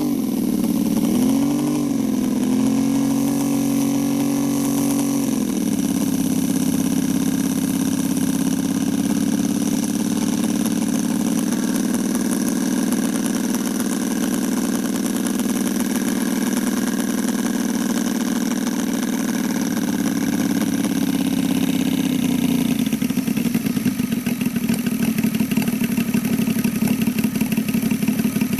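Saito three-cylinder petrol engine of a radio-controlled Zero Type 52 scale model running. Its pitch wavers for the first few seconds, holds steady for most of the stretch, then drops about 23 seconds in to a lower, rougher run with the separate firing pulses audible.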